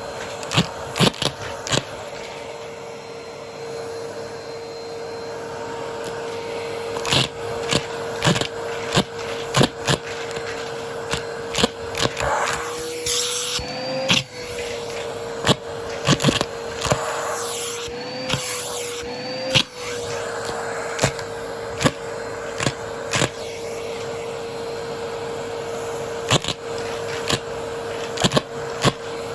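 Vacuum cleaner running with a steady motor whine while coins are sucked up, clicking and clattering sharply and irregularly through it. The motor's pitch rises slightly for a moment about halfway through and twice more a few seconds later.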